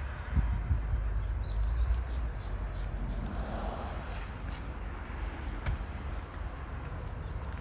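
Steady high-pitched buzzing of an insect chorus, with wind rumbling on the microphone, strongest in the first couple of seconds.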